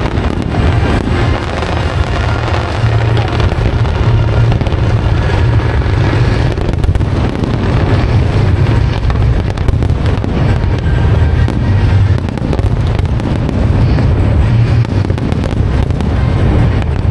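Aerial fireworks going off in a continuous dense barrage of rapid pops and crackles over a low rumble, with music playing alongside.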